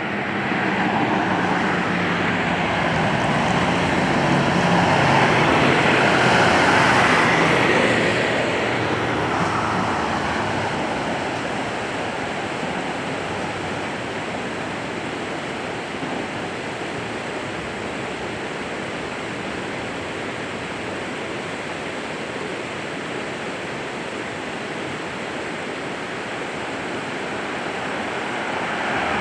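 A road vehicle passing on the highway. Its engine and tyre noise swells over the first several seconds and fades by about ten seconds in, leaving a steady rushing noise.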